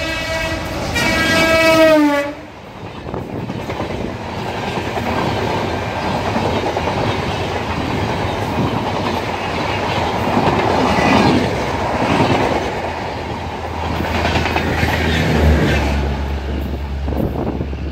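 Diesel locomotive's horn sounding for about two seconds, its pitch dropping as it passes. The express train's coaches then rush by at speed, wheels clattering over the rail joints.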